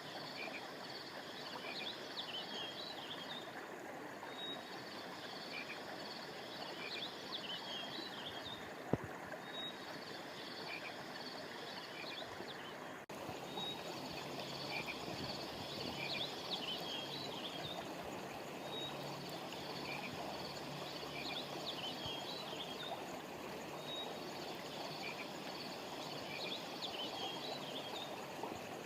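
Steady rush of flowing river water, with a high-pitched animal call repeating about every four seconds: a short single note followed by a couple of seconds of chattering. A sharp click sounds about nine seconds in, and the background shifts abruptly a few seconds later, as at an edit.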